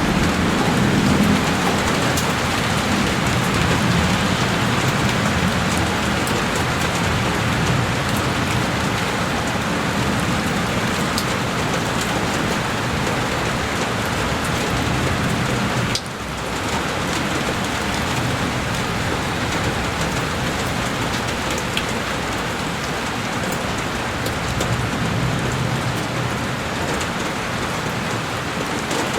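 Heavy rain falling steadily on a window pane, a dense, even hiss. The level briefly dips about halfway through, then carries on unchanged.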